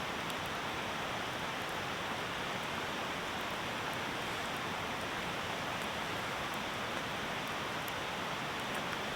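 Campfire crackling with faint, scattered pops over a steady, even hiss.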